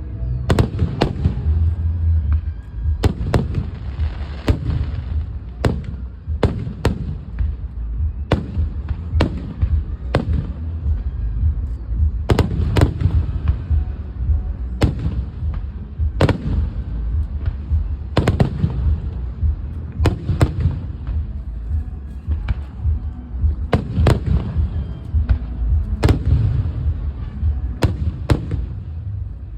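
Aerial fireworks bursting overhead: a string of sharp bangs, irregularly spaced a second or two apart, each with a short echoing tail, over a continuous low rumble.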